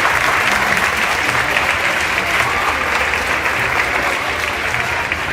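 An audience clapping and cheering steadily, a dense patter of many hands.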